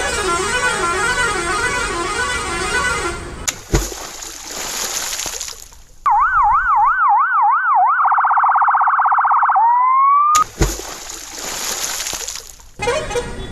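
Electronic siren sounds, as from a toy or a sound effect: a fast-warbling wail, then a rapid yelp, then a short rising tone, in the middle of the stretch. Before and after them are loud stretches of noise with a wavering tone.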